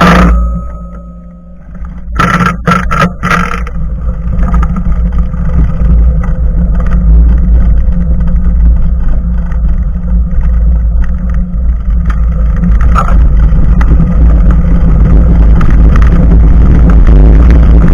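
Wind buffeting an action camera's microphone mounted just above a bicycle's front tyre, with tyre rumble, building to a loud steady rush as the bike gets up to speed. A sharp knock with a brief ring comes right at the start, and a few clunks about two to three seconds in.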